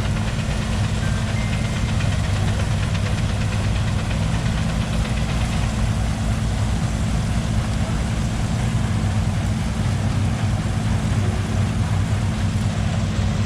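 An engine idling steadily, low-pitched and even.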